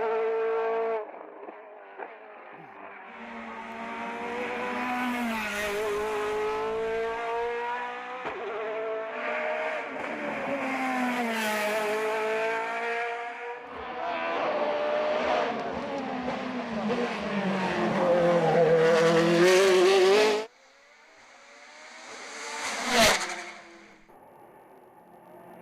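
Hillclimb race car engine at full throttle, revs climbing and dropping again and again as it shifts and brakes for corners. The sound cuts off suddenly about 20 seconds in, and another car then passes by quickly, loudest about 23 seconds in.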